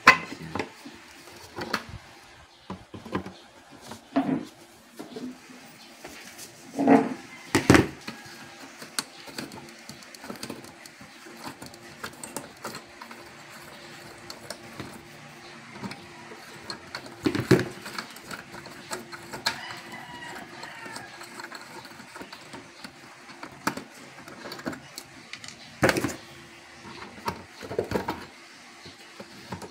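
Irregular clicks and knocks of tools and parts being handled while an electronic device is taken apart, with a few louder knocks scattered through.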